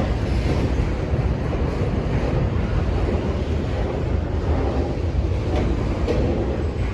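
Norfolk Southern intermodal freight train rolling past: a steady rumble of cars on the rails, with wind buffeting the microphone.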